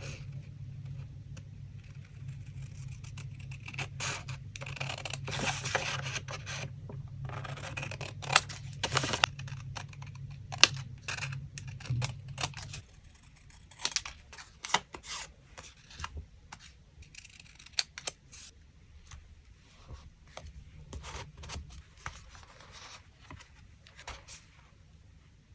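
Paper being cut with scissors and handled: crisp snips, rustles and scrapes of paper at an irregular pace. A low background hum stops about halfway through.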